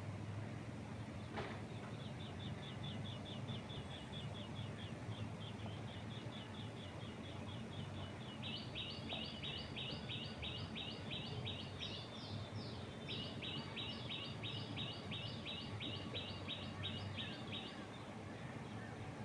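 A bird chirping a long run of quick, evenly repeated notes that grows louder about eight seconds in and stops near the end, over a steady low wind rumble.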